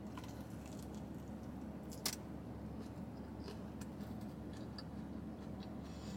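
Close-up chewing of a crispy fried fish taco: small crunching clicks and crackles, with one sharper click about two seconds in, over a steady low hum.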